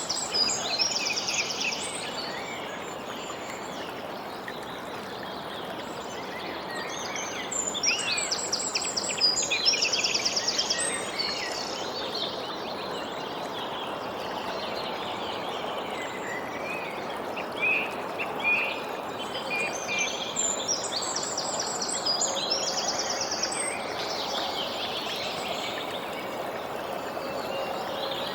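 Songbirds chirping and singing quick high trills in bursts, over a steady rushing background noise.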